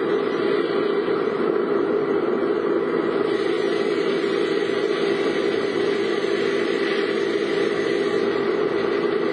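Car running: a steady hum of engine and road noise.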